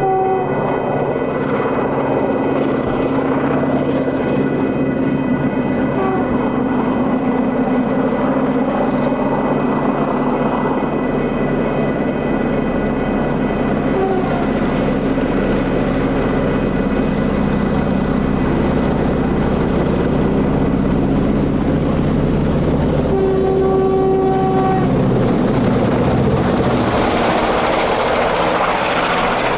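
Diesel freight locomotives running steadily under load, with short horn notes a few times and a longer horn blast about 23 seconds in. A rushing hiss of the passing train builds near the end.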